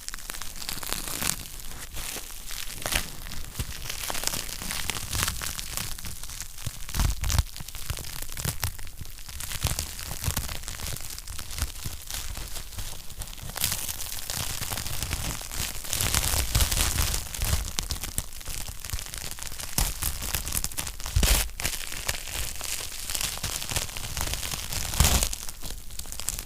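Wood fire burning in a fireplace: a steady crackle of many small pops and snaps, with a few louder pops scattered through, one of the loudest near the end.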